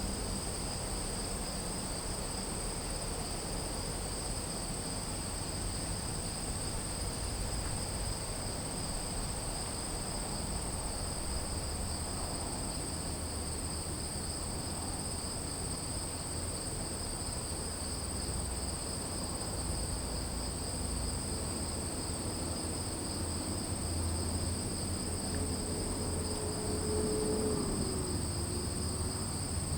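A chorus of crickets trilling steadily without pause in two high pitches, over a low rumble. A faint tone slides down briefly near the end.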